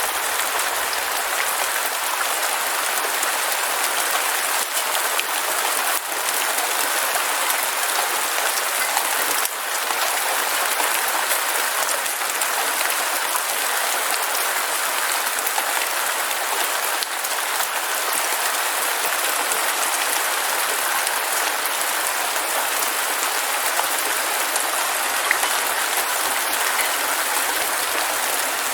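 Heavy rain falling steadily, a dense even hiss of many drops with little low rumble.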